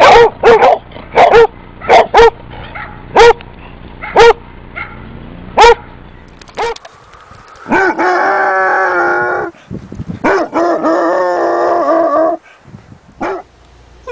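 Basset hound barking: about ten short, loud barks in the first six seconds, then two long, steady bays of about two seconds each.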